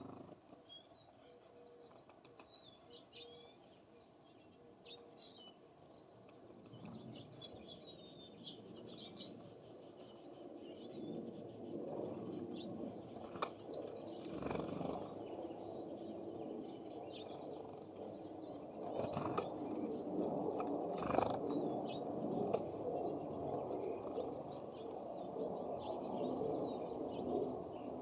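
Small songbirds chirping with short high calls. A rushing noise builds about a third of the way in and is the loudest sound through the second half, broken by a few sharp clicks.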